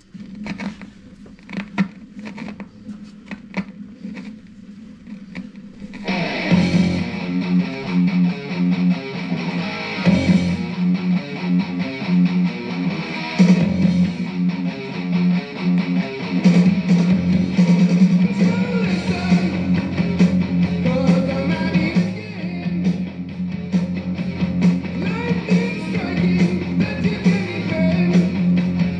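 Hard rock recording: a sparse opening of sharp, separate hits, then the full band with electric guitar, bass and drums comes in loud about six seconds in and plays on steadily.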